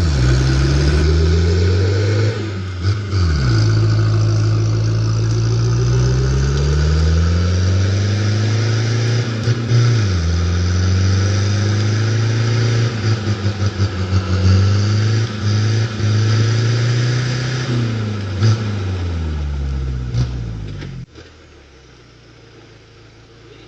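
Daihatsu Fourtrak's engine running, its revs rising and falling several times as the truck is driven, then switched off about 21 seconds in.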